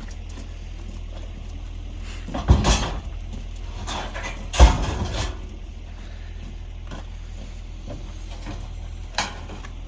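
Scrap metal being handled and loaded into a van: a couple of knocks about two and a half seconds in, the loudest bang about four and a half seconds in, and a lighter knock near the end, over a steady low hum.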